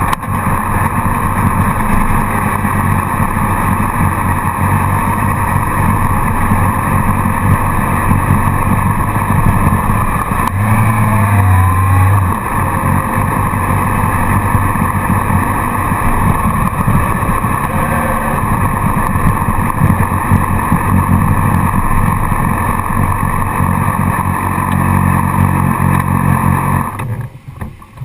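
Motorcycle engine running at low speed, heard from a camera on the bike's tail, with a brief rise in engine note about 11 seconds in. Near the end the engine stops and the sound drops away.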